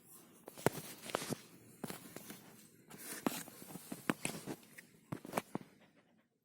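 Daewoo Nexia manual gearshift lever being worked back and forth, giving irregular sharp clicks and knocks with rustling between them. The sound is typical of a worn, loose shift linkage that lets the lever wobble.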